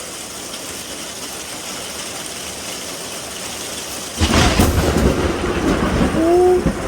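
Steady hiss of rain, then about four seconds in a sudden close thunderclap: a sharp crack that rolls straight into a loud, low rumble.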